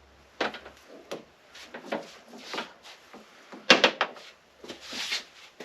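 Scattered knocks, clunks and rattles at an irregular pace, loudest in a quick cluster of clacks a little past halfway, with a short hissy rush near the end.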